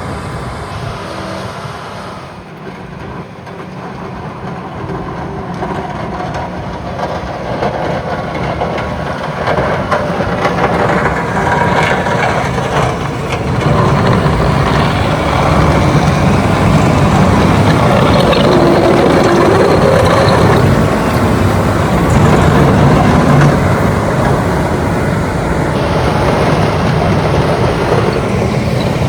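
Motor grader's diesel engine working as the machine pushes snow into a windrow. It grows louder over the first dozen seconds as the grader draws near, then stays steady.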